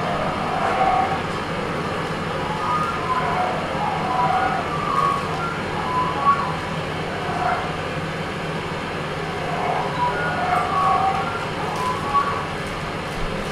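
Improvised experimental sound performance: a steady low drone under scattered short, wavering tones that come and go irregularly, with a few small clicks.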